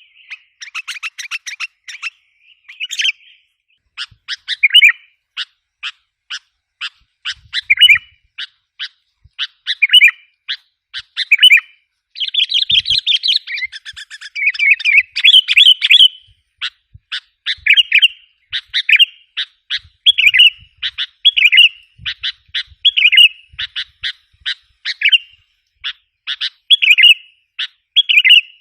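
Sooty-headed bulbul (kutilang) calls: rapid runs of sharp chirps broken every second or two by short bubbling phrases, with a dense stretch of overlapping chatter about halfway through. These are the excited calls used as a lure to draw wild bulbuls.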